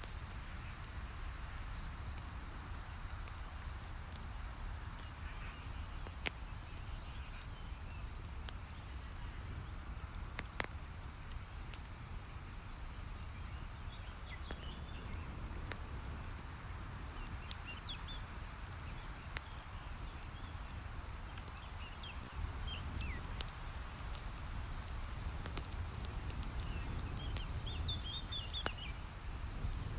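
Campfire crackling, with scattered sharp pops over a steady low outdoor rumble. A few short high chirps come in the second half.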